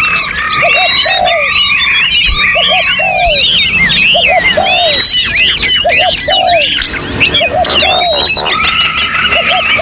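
A dense mix of many songbirds singing at once, with quick whistled and warbled phrases overlapping. Under them a low three-note cooing phrase and a held whistle repeat steadily, about once a second.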